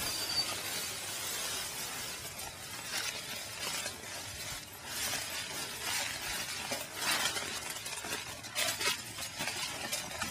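Footsteps crunching and rustling through meadow grass and brush, irregular crackles every second or so over a steady rustle.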